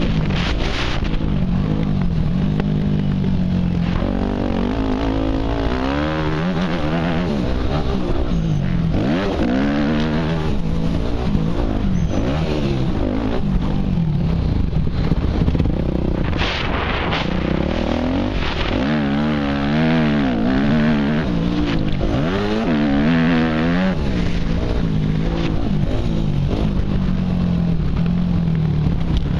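Motocross dirt bike engine heard from a helmet-mounted camera, revving up and dropping back again and again as the rider rides the track.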